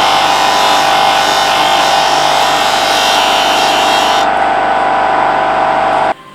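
Electric disc sander running with a steady whine while a wooden pencil is ground against the spinning abrasive disc, giving a hissing grind on top. The grinding hiss stops about four seconds in while the motor keeps running, then the sound cuts off suddenly near the end.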